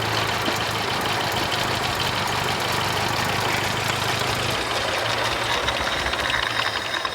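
1931 BSA three-wheeler's V-twin engine idling steadily through its custom-built exhaust.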